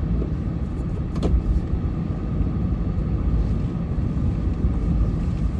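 Snowplow truck driving, a steady low rumble of engine and road noise, with one short knock about a second in.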